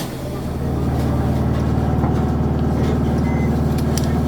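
Isuzu Erga city bus's four-cylinder turbo diesel engine working under load, growing louder over the first second and then running steadily. A sharp click comes right at the start.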